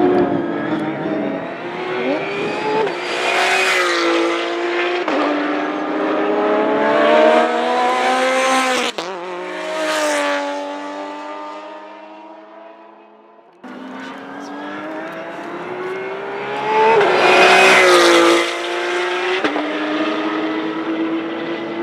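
Race car engines at high revs as cars pass one after another, pitch climbing and then dropping as each goes by. The sound fades low, then cuts back in abruptly to another car building to the loudest pass near the end.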